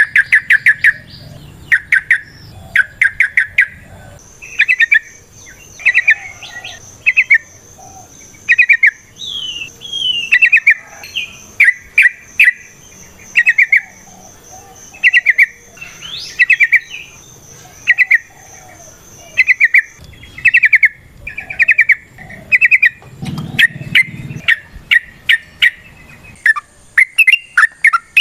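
Yellow-vented bulbul (trucukan, merbah cerukcuk) singing its long rolling song: loud, quick bubbly phrases repeated about once a second. Behind it a faint steady high-pitched whine runs for a stretch.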